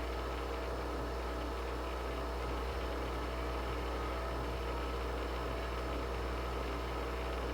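Steady hum of a small electric appliance motor running at constant speed, holding several steady tones.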